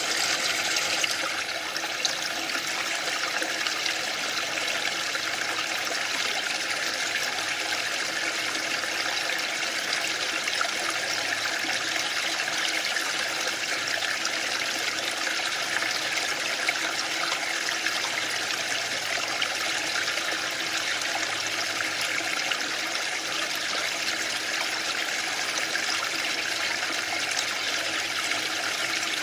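Waterfall: a steady, even rush of falling water with no pauses or swells.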